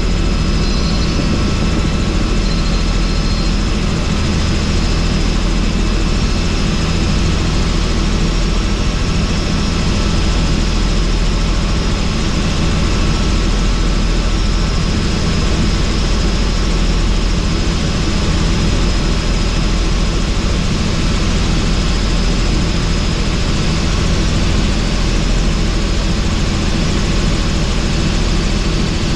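Helicopter in steady cruise flight heard from inside the cabin with the doors off: loud, unbroken rotor and engine drone with a low rumble, mixed with rushing wind.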